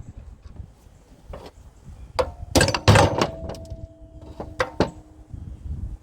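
Metal pump parts clanking against each other: a cluster of knocks about two to three seconds in and two more near the end, each leaving a brief metallic ring. They fit the pump's aluminium housing pieces being thrown onto a scrap pile.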